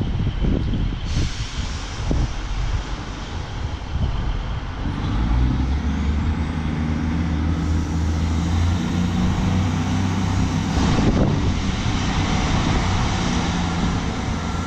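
A diesel train's engine running with a steady low drone that gets louder about five seconds in as the train gets under way. Wind buffets the microphone at the start.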